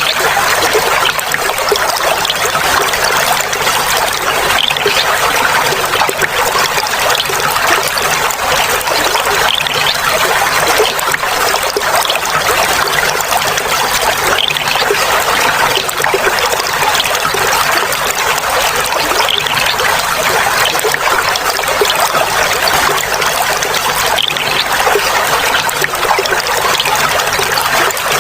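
Clear water flowing and trickling steadily over stones, a continuous babbling splash.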